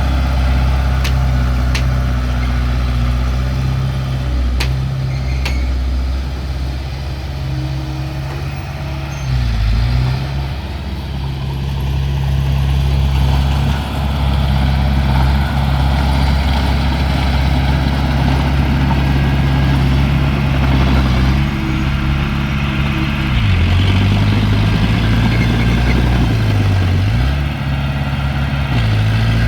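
Heavy machine's diesel engine running steadily at work, its pitch dipping and recovering about ten seconds in and several times near the end, with a few sharp clicks in the first few seconds.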